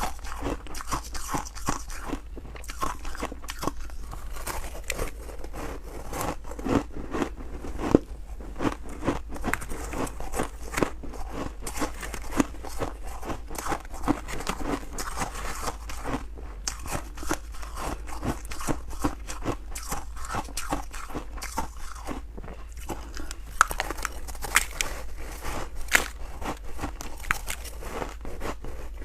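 Close-miked biting and chewing of freezer frost: continuous crunching, with frequent small crackles and an occasional louder crunch.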